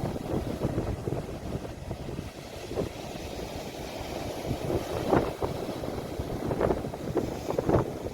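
Sea waves washing in, with wind buffeting the phone's microphone as a low, rumbling noise. A few brief higher sounds come through about five to eight seconds in.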